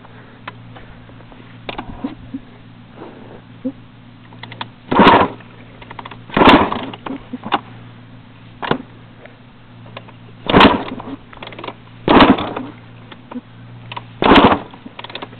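Kick-starting a 1999 Honda CR250R single-cylinder two-stroke after storage: six kicks, each a short loud burst of the engine turning over, coming about every second and a half to two seconds without the engine catching. A steady low hum runs underneath.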